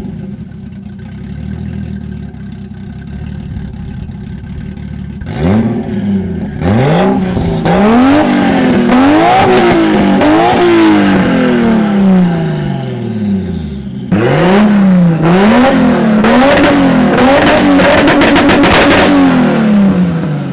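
Exhaust of a 1JZ-GTE-engined Toyota Supra, a turbocharged inline-six: a steady idle, then repeated throttle blips that rise and fall in pitch. About two thirds of the way in, a second run of quick revs follows, with sharp pops among them.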